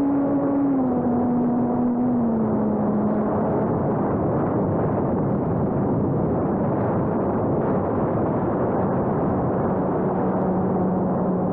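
Electric motor and propeller of a homemade RC airplane humming steadily over a rushing noise, the pitch stepping down about one and then two seconds in and holding lower.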